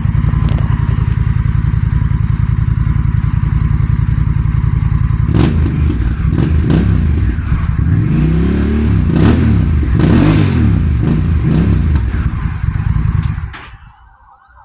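Honda Rebel 1100 parallel-twin engine through a Cobra slip-on exhaust, idling steadily for about five seconds, then revved in a series of throttle blips that rise and fall in pitch. The sound drops away sharply near the end.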